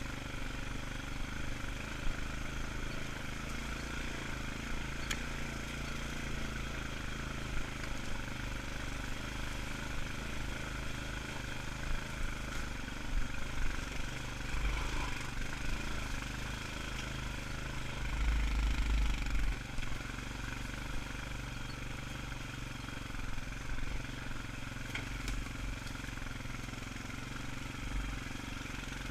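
ATV engine running steadily at a slow, low-speed pace up a steep trail. There are a few low thumps, the strongest about two-thirds of the way through.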